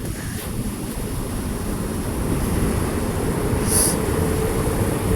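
Automatic car wash equipment spraying and running over the car, heard from inside the cabin: a steady rush of water and machinery that slowly grows louder, with a short hiss about four seconds in.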